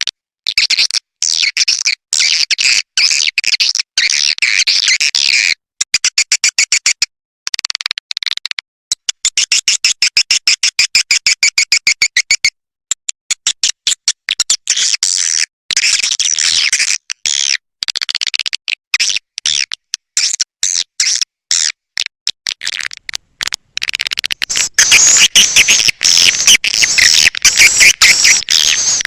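Swiftlet call recording: a flock of edible-nest swiftlets twittering and chattering in rapid, high-pitched clicking trills. The calls come in runs broken by short gaps of silence and get louder for the last few seconds.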